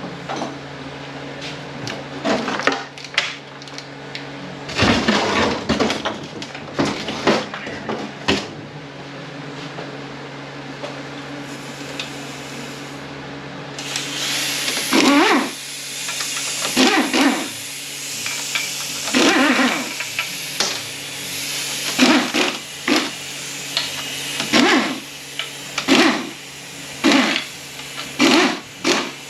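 Power ratchet running out the bolts on an automatic transmission's oil pan in a series of short bursts, about one every second or so, over a steady low hum. Metal clanks come in the first half.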